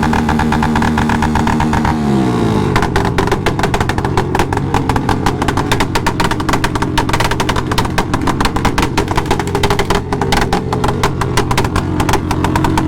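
Motorcycle engine held at steady revs, then the revs fall away about two seconds in and it runs at low revs with a rapid, stuttering beat of exhaust pulses.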